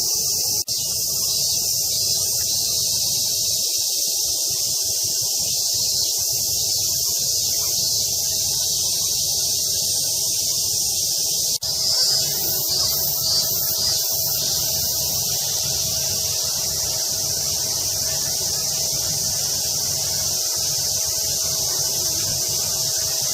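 Steady, loud, high-pitched chorus of cicadas. It breaks off for a moment about a second in and again about halfway, after which a pulsing call joins in for a few seconds.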